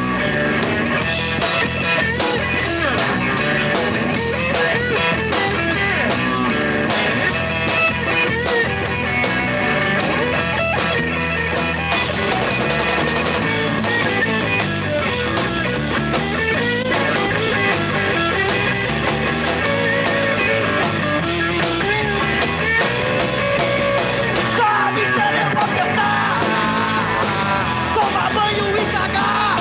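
Punk rock band playing an instrumental break: an electric guitar line with bends over bass and drums.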